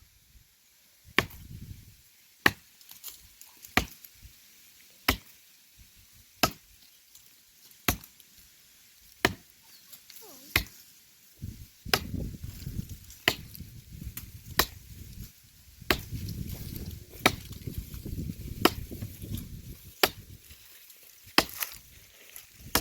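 Steady axe strokes chopping into dry wood, one sharp blow about every 1.3 seconds. A low rumbling noise joins about halfway through.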